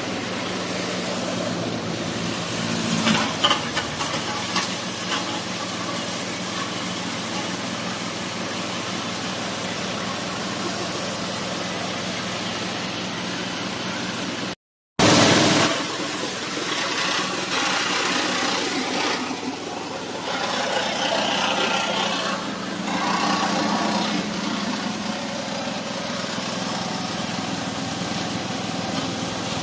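Small petrol engine running a mini paddy threshing machine at a steady speed, with a brief complete break about halfway.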